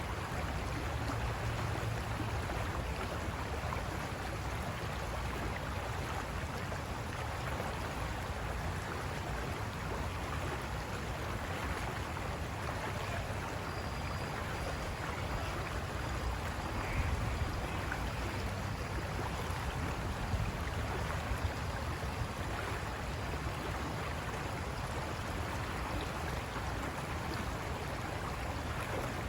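River water rushing over rocks, a steady, continuous rush.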